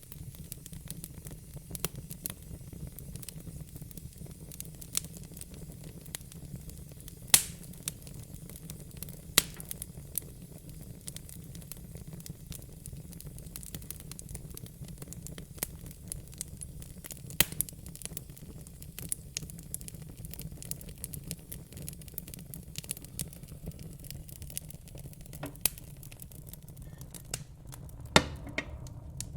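Wood fire in a fire pit crackling: irregular sharp pops and snaps over a low steady rumble, with a handful of louder pops.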